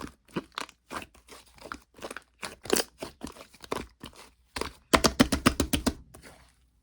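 Slime being squished and pressed by hand, with irregular crackling and crunching. About five seconds in comes a quick run of sharp pops and clicks, then it goes quiet.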